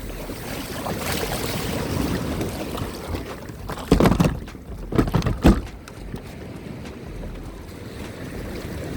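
Wind on the microphone and sea water around a kayak, with a few louder bursts near the middle.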